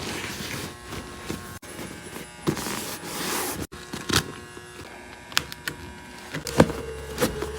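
Workshop handling sounds with a few scattered sharp clicks. A small electric motor starts humming steadily about six seconds in.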